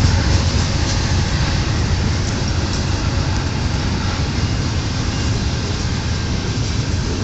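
Mixed manifest freight train rolling past, its cars making a steady low rumble on the rails.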